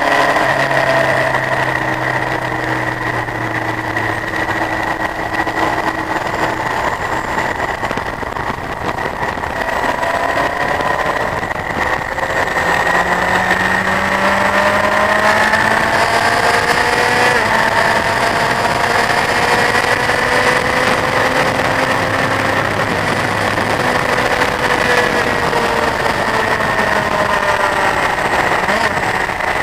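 Honda CBF1000's inline-four engine under way at track speed, the revs climbing and dropping several times, over a heavy rush of wind noise.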